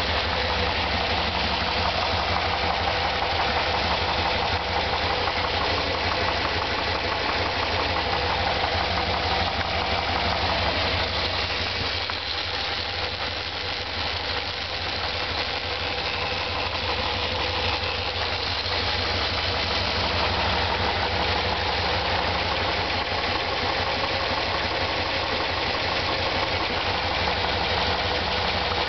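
1993 Dodge Dakota's 5.2 L (318) V8 running steadily with a knock coming from the driver's side of the engine.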